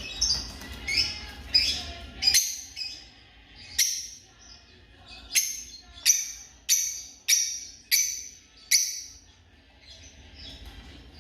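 African lovebirds calling: shrill, sharp chirps repeated about one to two times a second, with a pause near the end.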